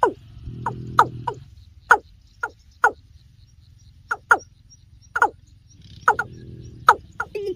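Watercock (kora) calling: a steady series of short notes that slide sharply down in pitch, about two a second, with a low drone under them twice, about half a second in and again about six seconds in.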